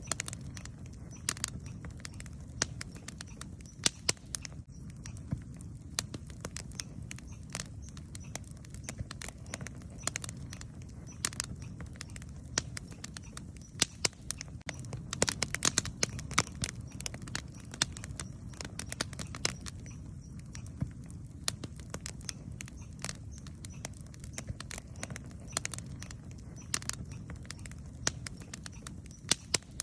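Wood campfire crackling, with irregular sharp pops and snaps, a flurry of them about halfway through, over a steady low rumble.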